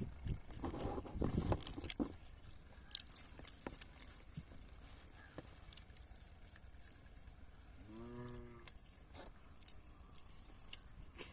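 Close chewing and biting of fast food, loudest in the first two seconds, with faint mouth clicks after. About eight seconds in comes one short, low, pitched call lasting under a second.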